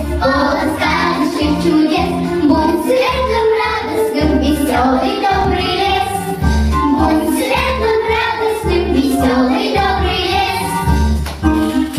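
Children singing a cheerful marching song together over an instrumental accompaniment with a steady, regular bass beat.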